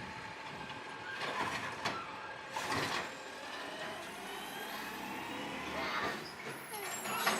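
Garbage truck running a little way off as it carries on along its route, with a few short knocks and a faint rising whine.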